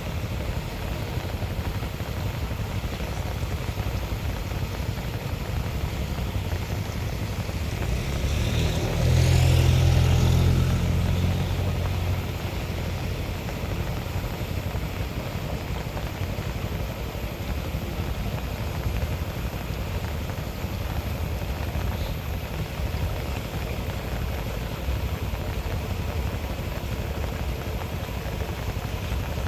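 A motor vehicle passes by, its engine and tyre hiss rising and then fading between about eight and twelve seconds in, over a steady rushing noise.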